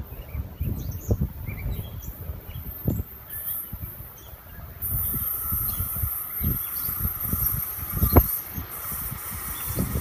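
Wind gusting on the microphone with birds chirping, and from about halfway through the rising hiss and faint steady whine of an approaching electric commuter train.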